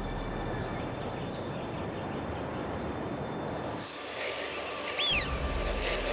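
Outdoor ambience: a steady background hiss, then from about four seconds in, small birds chirping, with one clear call near five seconds that rises and then falls.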